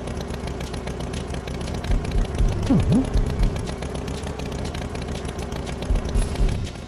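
A motor vehicle engine running steadily with a fast rattle, broken by low thumps, with a quick falling-then-rising pitch glide about three seconds in.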